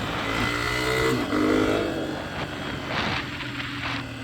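Engine of a vehicle being ridden, revving up twice with rising pitch, then running lower and rougher with a few short rushes of noise.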